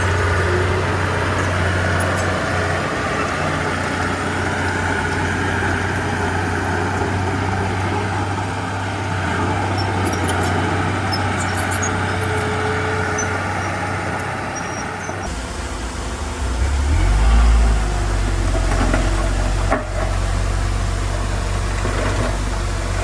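Diesel engine of heavy earthmoving machinery running steadily with a deep hum. About two-thirds of the way in the sound changes abruptly to a lower hum, followed by a brief rise in level.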